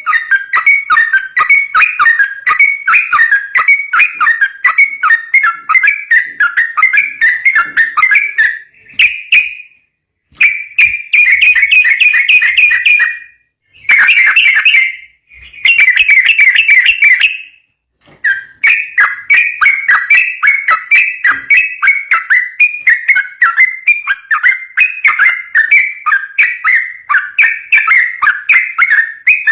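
Yellow-vented bulbul singing a fast, continuous 'ropel' song: rapid runs of short whistled chirps, loud and unbroken. There are a few sudden short breaks near the middle.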